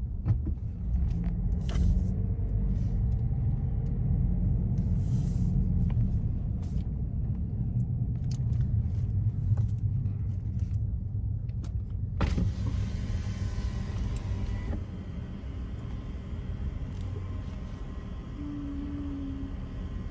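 Car engine and road rumble heard from inside the cabin while driving slowly, with a few scattered clicks. About twelve seconds in a sharp click is followed by a couple of seconds of hiss.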